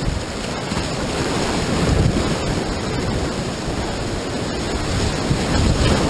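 Rushing whitewater of a river rapid, a steady roar that swells twice, with wind buffeting the microphone.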